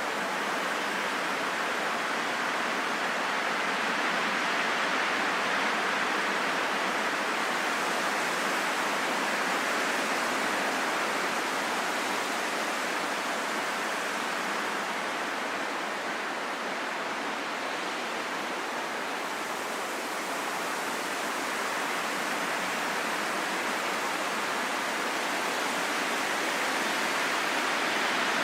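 Steady wind, a smooth rushing hiss that swells and eases slowly without gusts or pauses.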